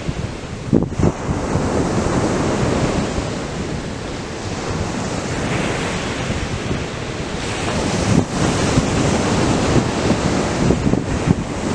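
Ocean surf breaking and washing up the beach in a continuous rush, swelling a little louder over the second half, with wind buffeting the microphone in short low thumps.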